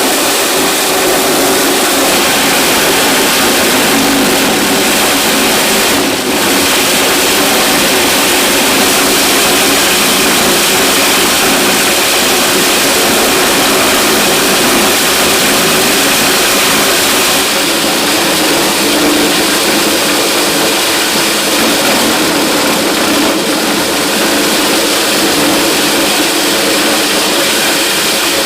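An engine-driven machine running steadily and loudly, a constant hum under dense noise, with no pauses.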